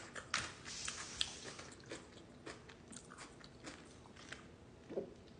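Close-miked chewing and biting of food, with wet mouth clicks and short crunchy crackles, busiest in the first second or so.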